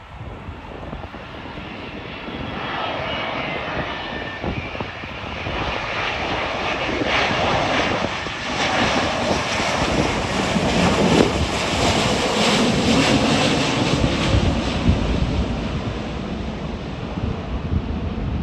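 Jet airliner passing low overhead. The engine noise builds over several seconds and is loudest past the middle, with a tone that falls in pitch as the aircraft goes by, then eases off.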